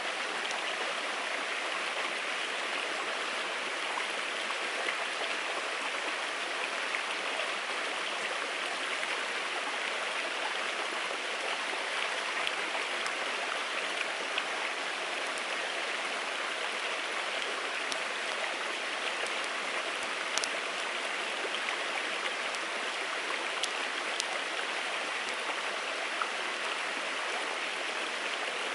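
Wood fire burning in a small UNIFLAME Nature Stove, giving a few sharp crackles now and then over a steady rushing noise.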